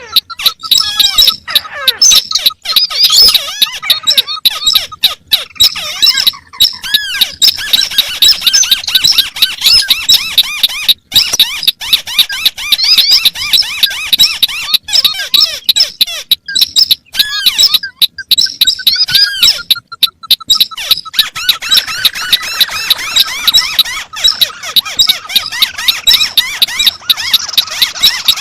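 Small paddy-field crakes calling over one another in a dense, fast stream of high squeaky notes, broken near the start and again about two-thirds through by a descending run of lower whistled notes.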